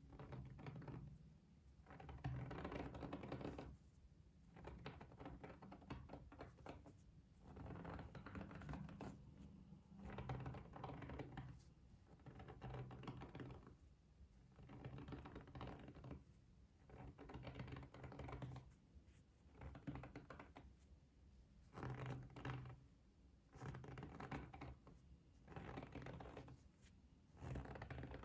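Close-up ASMR trigger sounds: clusters of soft, quick taps and scratches, coming in bursts about every two seconds.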